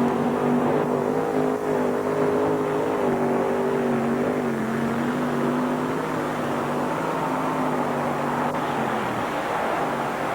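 Mini modified pulling tractor's engine running flat out at high revs during a pull down the track. The pitch dips slightly about halfway, then holds before fading near the end.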